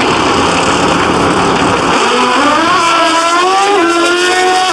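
Pro drag motorcycles at full throttle down the track: a loud, dense blast for about two seconds, then the engine notes climb in steps as the bikes shift up through the gears.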